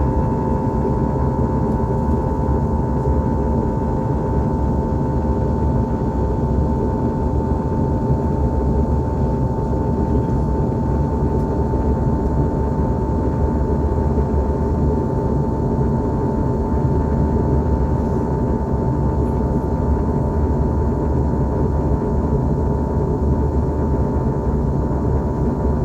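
Steady cabin noise of an Airbus A321-211 airliner, the even roar of its CFM56 engines and airflow with a steady whine held throughout.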